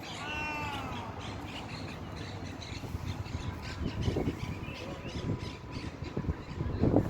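A bird calling once at the start: a single drawn-out call, about a second long, that rises then falls in pitch. After it, outdoor background with a faint steady tone and low bumps around four and seven seconds in.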